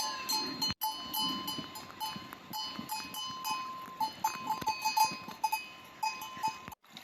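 Small livestock bells clinking and tinkling irregularly, many short ringing notes at a few fixed pitches, as animals move about.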